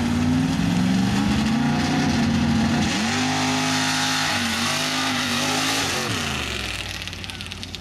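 Mud-racing truck engine revving hard at high rpm. Its pitch dips and climbs back about three seconds in, then drops away about six seconds in as the engine winds down and fades.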